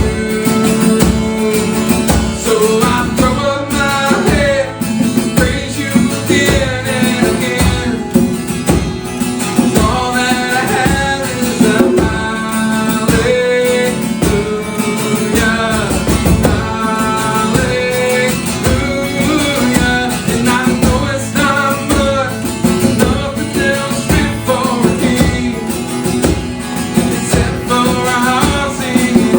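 Acoustic worship music: singing over strummed acoustic guitar.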